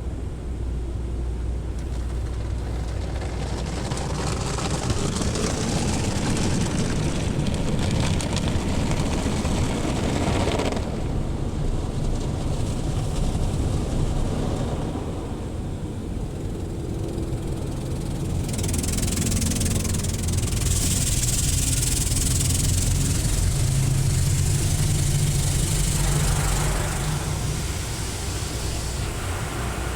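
Automatic car wash heard from inside the car: two long spells of hissing water spray wash over the car, each lasting several seconds, over a steady low rumble.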